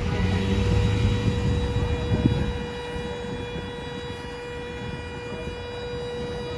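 Road and engine rumble of a car picked up by a dashcam, easing after about two and a half seconds, with a steady high-pitched tone running through it.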